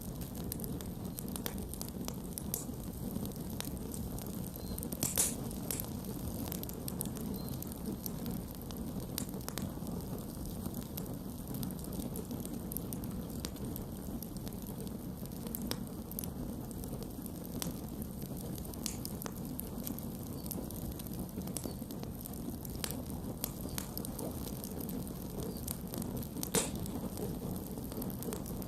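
Campfire burning with a steady low rush and scattered crackles and pops, a sharper pop about five seconds in and another near the end.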